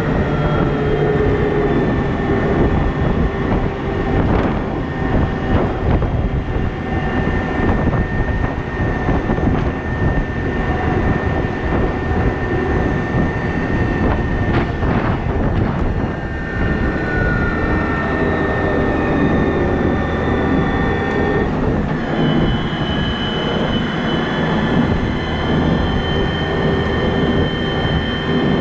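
Cat 972M XE wheel loader's diesel engine running steadily under work, with a steady whine over the engine noise and a few brief knocks.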